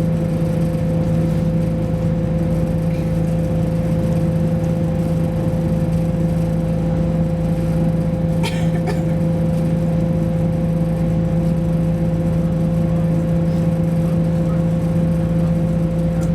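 West Midlands Railway Class 172 diesel multiple unit heard from on board while under way: a steady engine and drivetrain hum over a low rumble. A brief rattle comes about halfway through.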